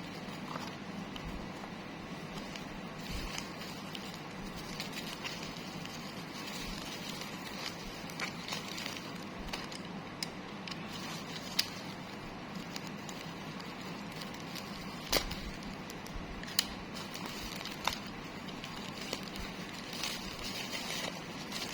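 Handling of plush keyring packaging: light crackling and rustling of plastic wrap with scattered small clicks, a few sharper ones in the second half, over a steady background hum.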